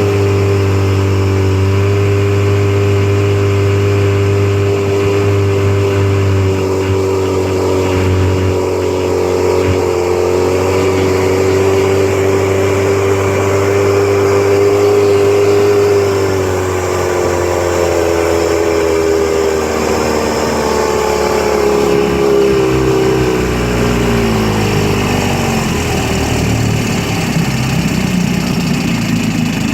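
1954 Johnson RDE-16 25 hp two-cylinder two-stroke outboard running at speed, pushing a small boat across the lake, its note steady with a slight waver. In the last third the pitch falls as the motor is throttled back.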